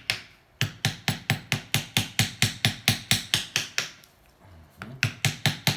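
Rapid, even hammer taps, about six a second, in two runs with a short pause near four seconds in.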